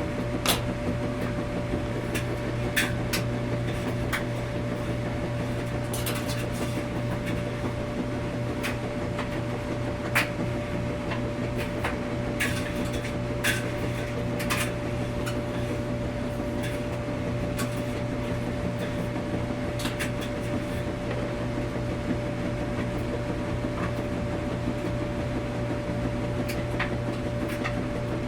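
Laundromat washing machine running with a steady mechanical hum and a constant tone above it, broken by irregular sharp clicks and knocks every few seconds.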